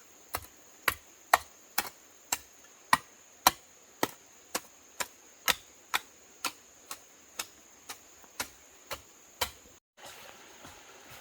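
A regular series of sharp knocks from a tool striking repeatedly, about two a second and fairly even. The knocks stop when the sound cuts off near the end.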